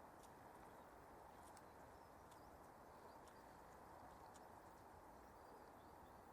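Faint, scattered short high bird chirps over a steady low hiss.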